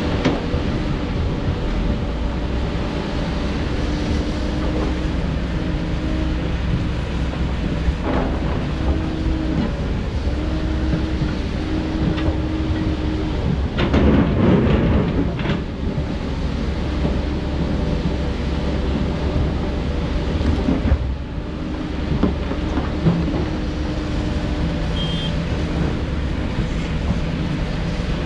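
Heavy diesel construction machinery, an excavator, running and working, with a steady low rumble and a humming tone that cuts in and out as the machine works. A louder burst of clatter comes about halfway through.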